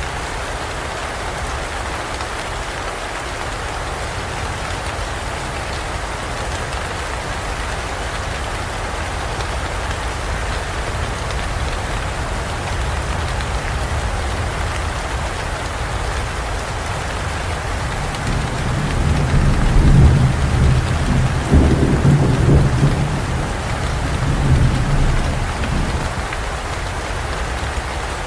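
Steady heavy rain falling in a forest, with a low roll of thunder that swells about two-thirds of the way through, rumbles for several seconds and fades back into the rain.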